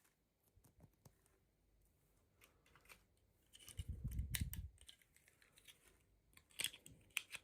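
Small toy packaging being handled and opened: scattered light plastic clicks and taps, with a dull low rumble of handling about four seconds in and a quick cluster of clicks near the end.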